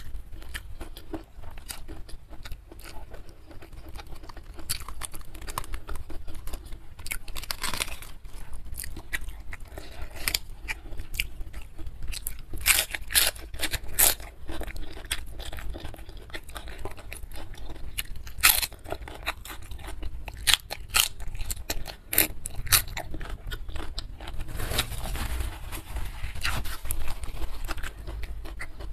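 Close-miked mouth sounds of a person eating: steady chewing with many sharp, crisp crunches, loudest a little before halfway, as bites of raw vegetables such as cabbage leaf are crunched along with goat-trotter curry and rice.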